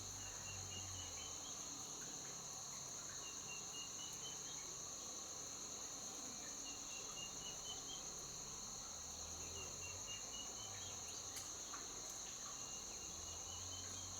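Steady, high-pitched chorus of crickets or other insects, with a short, rapidly pulsed call repeating about every three seconds.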